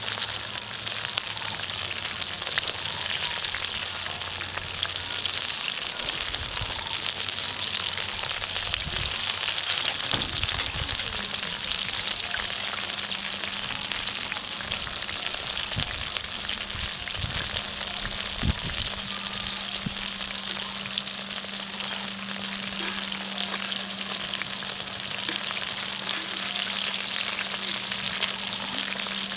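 Food frying in hot oil, a steady crackling sizzle with scattered small pops, and a faint low steady hum that joins about a third of the way in.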